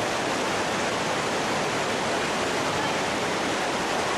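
Steady, unbroken rush of water, like a fast mountain stream or waterfall.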